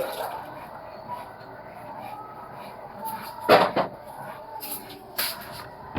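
Panasonic washing machine ticking over quietly mid-cycle in blanket mode, with its water inflow stopped. A couple of sharp knocks come a little past halfway, and another near the end.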